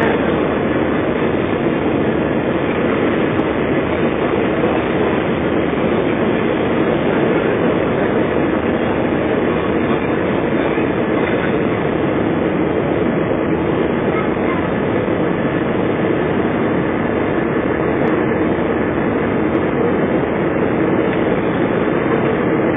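Airbus A320 cabin noise: a steady, loud rumble of the jet engines and airflow heard from inside the passenger cabin, holding level without spooling up or down.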